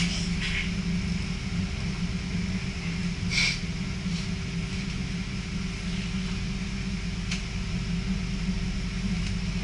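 Steady low rumble and hum of an NS passenger train running, heard from inside the carriage, with a brief hiss about three and a half seconds in.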